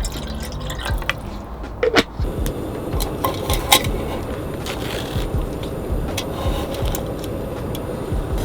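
Liquid being poured and stirred, with scattered light clicks and taps of utensils, two sharper ones about two and four seconds in.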